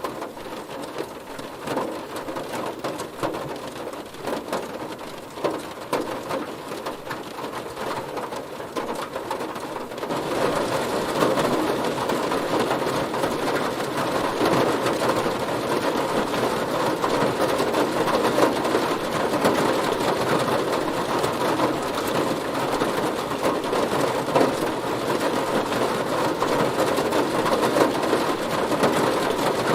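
Heavy rain hitting a car, a dense patter of drops on the bodywork; it turns heavier and louder about ten seconds in.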